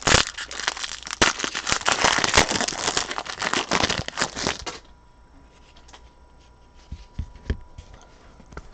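Foil wrapper of a pack of trading cards crinkling and tearing as it is ripped open; the crackle stops abruptly almost five seconds in. A few faint clicks follow.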